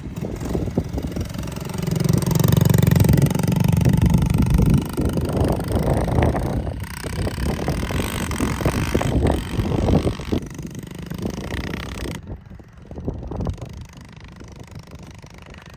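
A dirt bike's engine running as it is ridden, loudest a couple of seconds in and getting quieter near the end.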